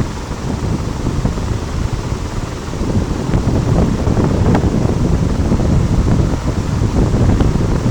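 Courtallam waterfall in heavy flood, water pouring down onto rock with a loud, steady noise.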